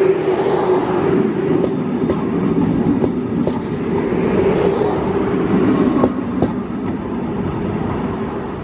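A train running past on the rails, its wheels clicking over rail joints, the noise easing off and fading over the last couple of seconds.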